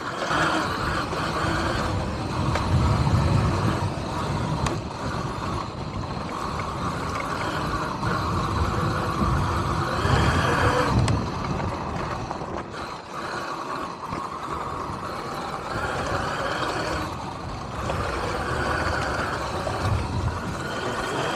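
Riding noise from an electric dirt bike on the move: a steady rush of wind and tyre rumble with no engine note, swelling a few times.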